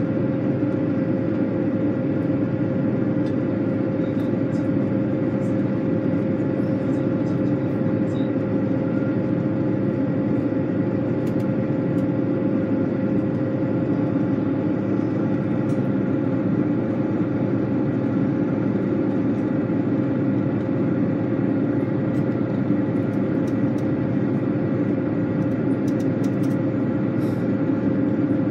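Steady drone of a vehicle running at an even speed, with a constant hum through it.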